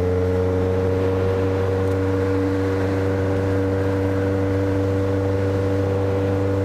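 Big Honda CB motorcycle's engine and exhaust rumbling loudly while riding, held at steady revs with an even, unchanging pitch.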